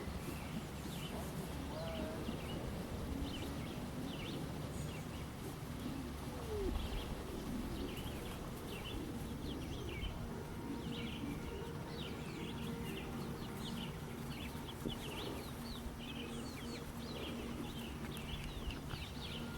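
Free-ranging chickens clucking and calling, with many short high chirps that come thicker in the second half, over a steady low background rumble and a faint hum.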